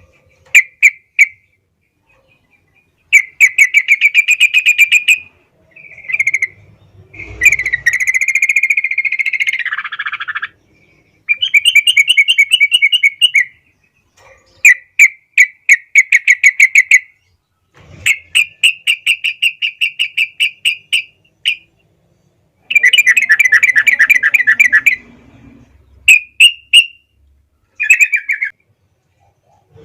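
Yellow-vented bulbul (trucukan) singing in full, steady voice: a series of bubbling phrases, each a quick run of about eight notes a second lasting one to two seconds, repeated with short pauses, one longer slurred phrase about a third of the way in.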